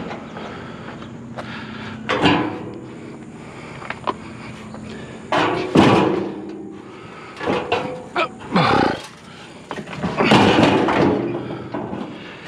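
Scrap barbecue grill pieces scraping and clanking as they are shifted and stacked on a trailer, in about five separate bouts with short squealing scrapes.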